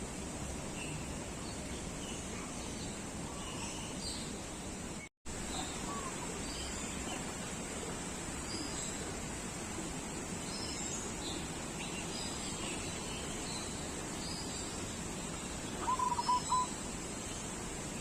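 Several birds calling: many faint short chirps and whistles over a steady background hiss, with a louder run of four quick notes about sixteen seconds in.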